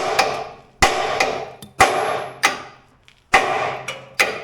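Hammer blows on a steel drift driving a tight, stuck pivot pin out of a skid steer's quick-attach: about six sharp metal strikes, roughly one a second, each ringing briefly.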